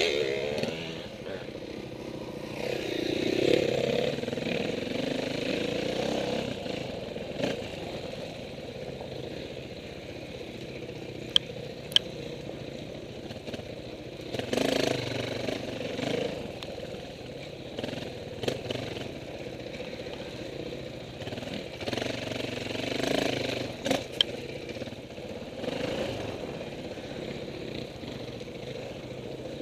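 Off-road motorcycle engines running, with several swells in engine noise as bikes rev and pass. Two sharp clicks near the middle.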